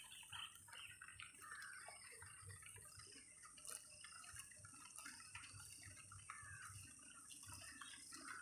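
Faint morning nature ambience: many short, scattered high chirps over a steady high-pitched hiss.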